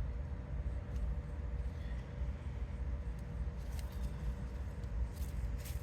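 Steady low rumble with a faint hum, and a few short scratchy rustles about two-thirds of the way in and again near the end, as hands dig through potting soil in a grow bag.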